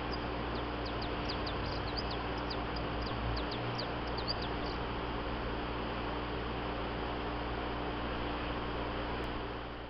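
Small birds chirping in many short, quick high notes for the first four seconds or so, over a steady hiss and low hum.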